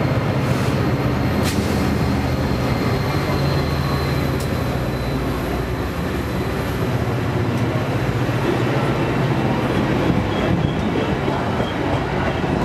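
Metra commuter train passing at speed: the diesel locomotive's engine hum, then bilevel gallery cars rushing by with a steady wheel-on-rail rumble and a few sharp clicks.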